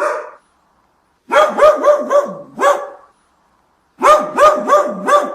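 Duck quacking: two quick runs of about five nasal quacks each, separated by a short pause.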